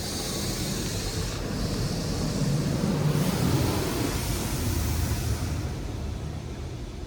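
Water spray from a LaserWash 360 touch-free car wash drumming and hissing on the car body, heard from inside the cabin. It swells to its loudest about three seconds in as the spray passes close, then fades.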